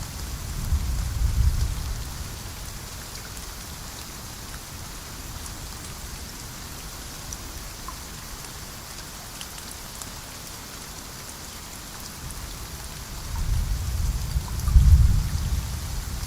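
Steady rain falling, with low rolling rumbles of thunder in the first couple of seconds and again near the end, loudest just before the end.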